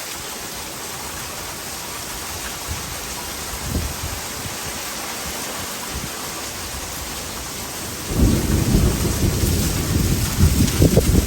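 Heavy rain falling in a steady hiss. About eight seconds in, a loud low rumble of thunder sets in and keeps rolling.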